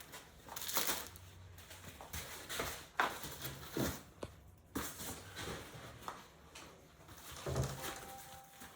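Packaging being handled during an unboxing: irregular rustles, scrapes and light knocks as parts are pulled from their packing, with a sharper click about three seconds in.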